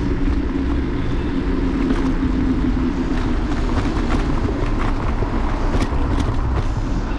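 City street traffic and the ride noise of an electric scooter picked up by a handlebar-mounted camera: a steady low rumble with road and wind noise, and a few sharp clicks about six seconds in.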